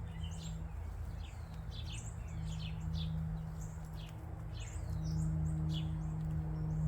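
Several small songbirds chirping, a busy run of short, quick notes that mostly sweep downward, over a steady low hum that grows a little louder near the end.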